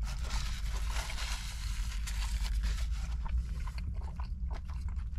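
A person biting into and chewing a mouthful of Chick-fil-A spicy deluxe fried chicken sandwich, its breaded crust crunching. The crackle is dense for the first few seconds, then thins to scattered clicks near the end.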